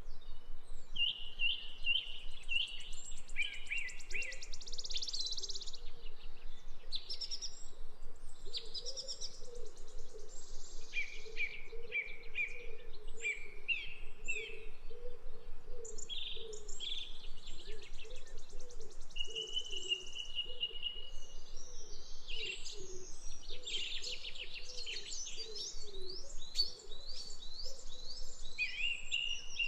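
Birds chirping and trilling in a long run of short, varied calls, over a low, evenly repeating pulse.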